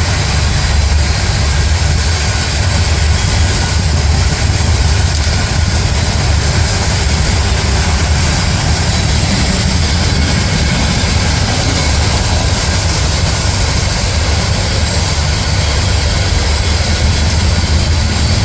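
Heavy diesel railway machinery running steadily: a loud low engine drone under a constant mechanical rush.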